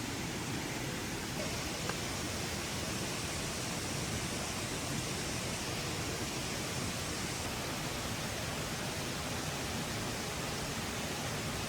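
Steady, even rushing noise with no pitch, with one faint click about two seconds in.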